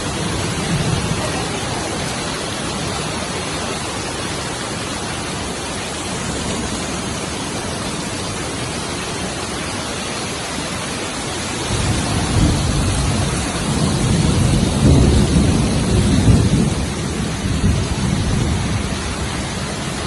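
Heavy thunderstorm rain pouring steadily. From about twelve seconds in, a louder, uneven low rumble of thunder rises over it.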